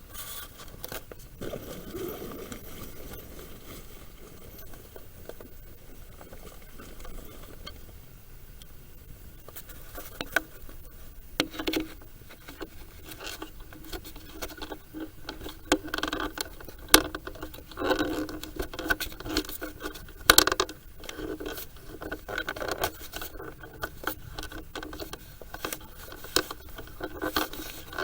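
Irregular scraping, rubbing and clicking as objects are handled, getting busier with many sharp clicks from about ten seconds in.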